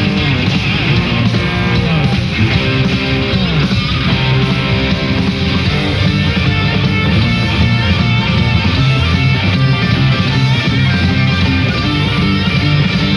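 Live rock band playing loud, with electric guitar leading over bass and drums in the long instrumental jam of a southern rock song; about two to four seconds in the guitar plays sliding, bending notes.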